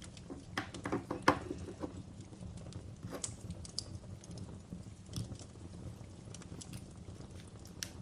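Wood fire crackling in a fireplace: a steady low rumble with irregular sharp pops and snaps, and a quick run of crackles with one loud pop about a second in.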